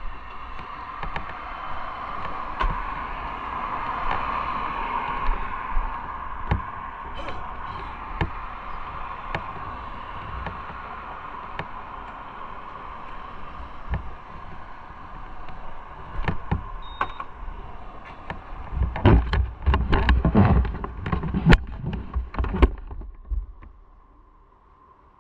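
Motorcycle running with a steady hum. A run of loud knocks and clunks comes near the end, and then the noise drops away sharply.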